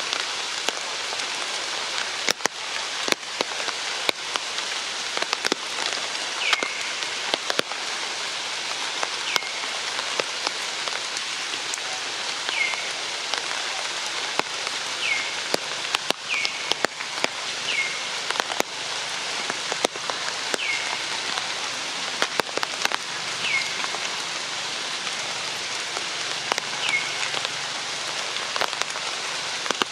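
Steady rain hissing, with many sharp drops tapping close by. From about six seconds in, a short chirp that falls in pitch repeats every one to three seconds.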